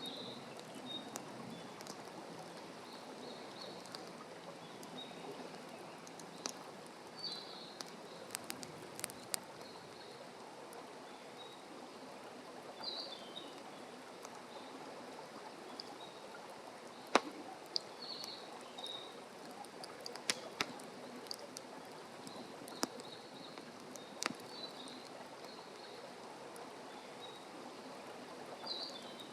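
Open wood fire crackling, a steady hiss with scattered sharp pops, the loudest about midway. A small bird gives short high chirps every five or six seconds.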